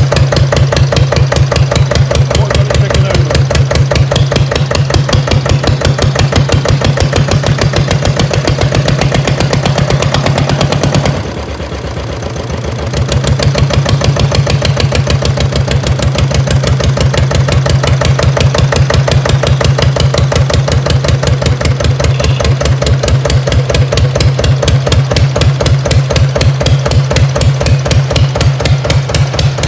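Armstrong Siddeley diesel engine on a Massey baler running steadily with a rapid, even firing beat. About eleven seconds in it goes quieter for a couple of seconds, then carries on as before.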